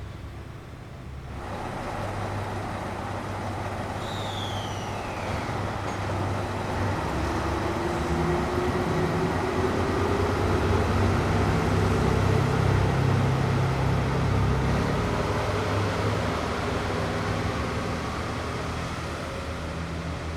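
JR Shikoku 2700-series diesel express railcar pulling away: a low diesel engine drone that grows louder as it accelerates, with a slowly rising whine, loudest about halfway through and then easing. A short falling high chirp is heard about four seconds in.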